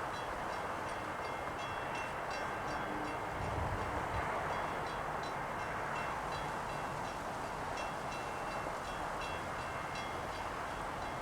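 Passenger train approaching on the rails, a steady, even rumble with faint rhythmic high ticking over it.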